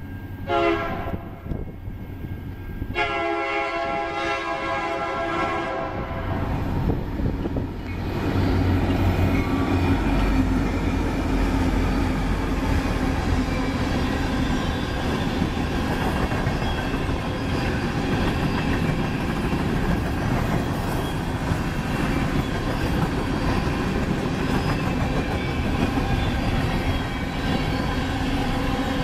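Two EMD SD70M diesel locomotives sound their horn on approach, a short blast and then a long one of about three seconds. The locomotives then rumble past, followed by a long string of empty coal hopper cars rolling by with a steady clatter of wheels on the rail.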